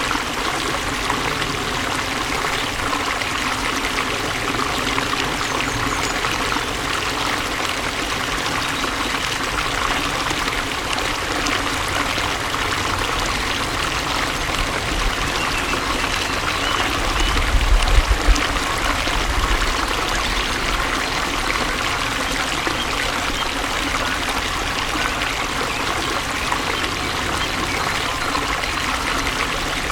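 Water flowing steadily, with a brief low rumble about halfway through.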